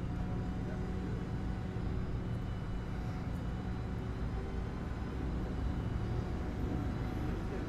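Steady engine and road noise of a moving vehicle: an even low drone with faint steady tones over it.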